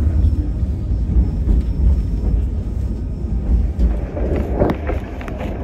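A White Pass & Yukon Route passenger train running along the track, heard on board as a steady low rumble with a few faint clicks.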